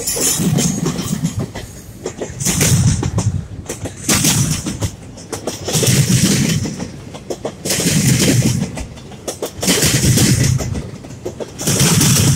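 Freight train passing close by: a diesel locomotive and then double-stack intermodal well cars, their steel wheels clattering over a track crossover. The clatter comes in loud surges about every two seconds as each set of wheels crosses.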